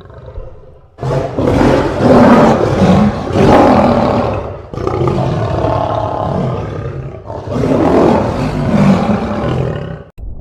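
A large animal calling loudly in three long, low-pitched calls, the first starting about a second in.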